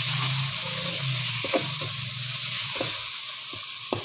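Onion-tomato masala with whole spices sizzling in ghee in a kadai while it is fried, a metal spoon stirring and scraping against the pan now and then, with a quick run of scrapes near the end.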